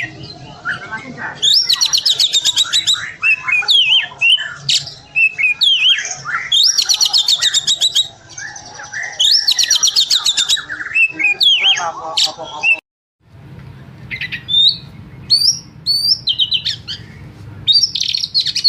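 Oriental magpie-robin (kacer) singing in its agitated 'emosi' style: loud, varied whistled notes and glides, broken every few seconds by a rapid, buzzy high trill. The sound drops out briefly about two-thirds of the way through, then the singing resumes with short rising whistles.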